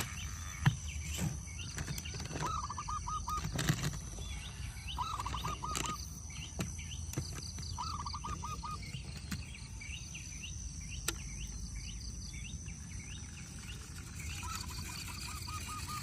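Bird calls: short chirps repeated in quick groups of about five, several times, over a steady high hum and low rumble, with a few sharp knocks.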